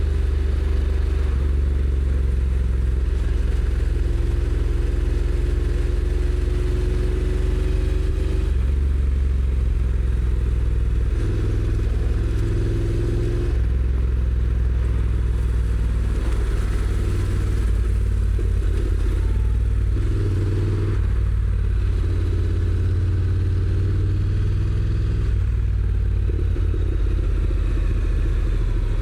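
Honda NC750X's 745 cc parallel-twin engine running on the move through its stock exhaust, a deep steady engine note whose pitch shifts several times as the bike changes speed and gear.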